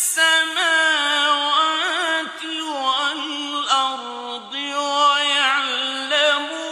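A male reciter chanting the Quran in the slow melodic mujawwad style: one voice holding long drawn-out notes with wavering, ornamented turns, pausing only briefly for breath.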